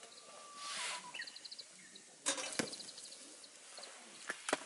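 Small birds calling outdoors: short rapid chirping trills repeated several times, with a held whistle and a gliding call in the first second. A brief whoosh comes about a second in, and a few sharp knocks sound around two and a half seconds and again near the end.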